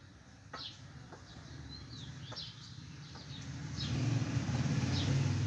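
Small birds chirping: short high notes that drop in pitch, repeated every second or so, over a low rumble that grows louder about four seconds in.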